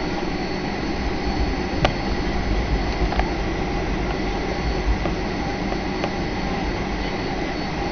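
Passenger jet running on the runway: a steady engine drone and rumble with a thin steady whine, and a sharp click about two seconds in.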